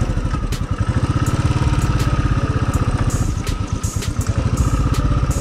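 Royal Enfield Thunderbird 500's single-cylinder engine thumping at low revs as the bike is ridden through slippery mud. The pulses get louder about a second in.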